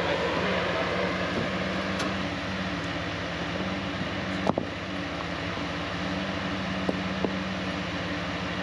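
Off-road vehicle engine running steadily at low revs, with one sharp knock about halfway through and two lighter clicks near the end.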